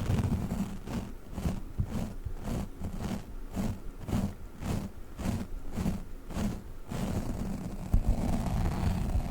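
Sticky squishy Globbles toys being squished and pulled close to the microphone. They make soft wet squelching strokes in a regular rhythm of about two and a half a second. A denser, continuous run of sticky crackling follows near the end.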